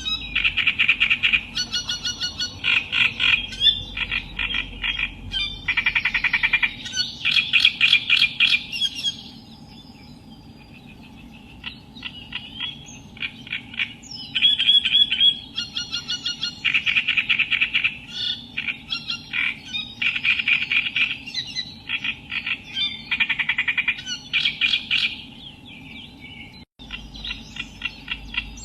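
Reed warbler singing: harsh, chattering phrases repeated in runs with short pauses, going quieter for a few seconds about a third of the way through before starting again.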